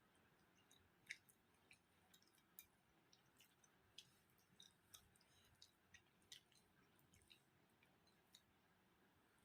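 Faint, irregular little clicks and smacks of someone chewing and eating a meal of curry and rice, a dozen or more in quick, uneven succession.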